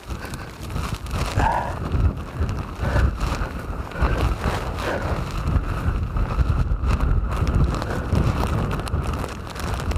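Blizzard wind buffeting the microphone in loud, irregular gusts.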